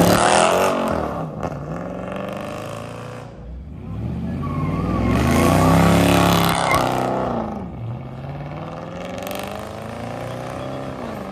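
Car engines revving hard as cars accelerate past: the engine pitch swells and falls twice, loudest at the very start and again about six seconds in, then settles into a steadier, slowly rising note near the end.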